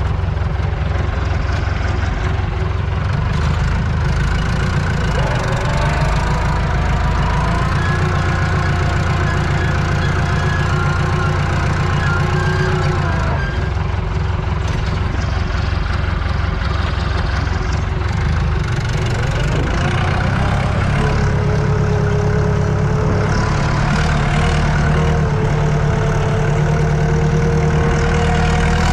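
Tractor diesel engine running steadily under load, heard from inside the cab. Its higher tones rise about five seconds in, hold, and drop back some eight seconds later, and a new steady tone comes in about two-thirds of the way through.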